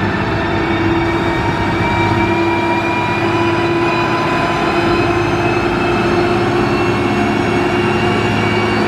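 Heavy diesel engine of a motor grader running steadily under load, its pitch climbing slowly.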